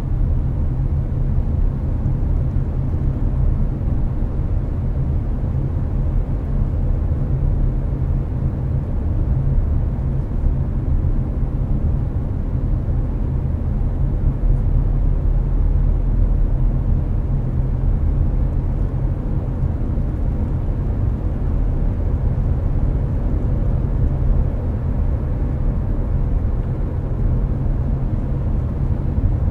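Hyundai Avante cruising on a highway: a steady low road-and-engine rumble heard from inside the cabin, with the air conditioner running. The drone stays even throughout, with a faint steady hum above it.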